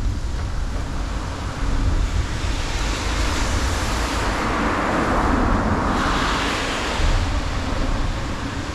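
Highway traffic: a steady low rumble, with a passing vehicle's rush swelling and fading between about three and seven seconds in.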